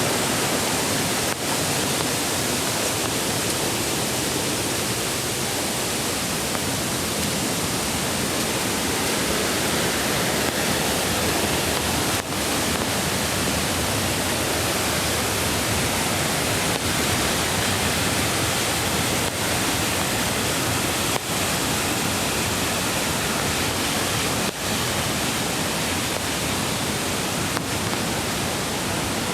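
Mountain stream water rushing, a loud, steady, unbroken wash of sound.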